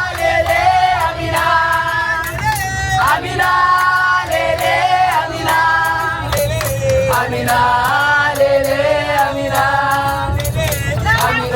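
Music with several voices singing, holding long notes over a steady low accompaniment, like a worship choir.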